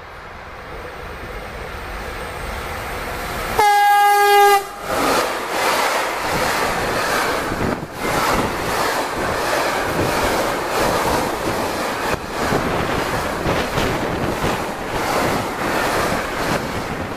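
Freight train approaching and growing louder. It sounds one short horn blast of about a second, then passes at speed close by with the steady rumble of the wagons and the clack of wheels over the rail joints.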